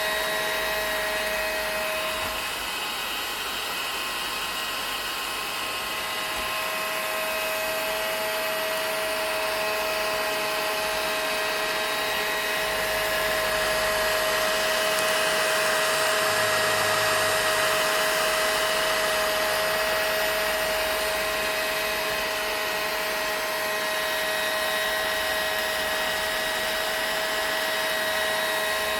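Vacuum cleaner motor running steadily, a continuous rushing whir with a few steady whining tones over it and no change in speed.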